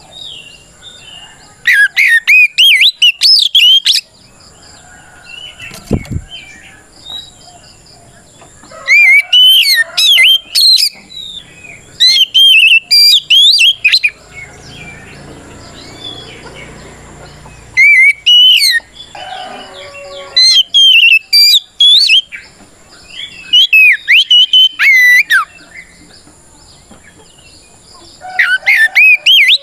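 Oriental magpie-robin singing its loud 'ngeplong' fighting song, a territorial song that calls out rivals. It comes in bursts of quick, whistled notes that swoop up and down, each phrase one to two seconds long, with short pauses between them.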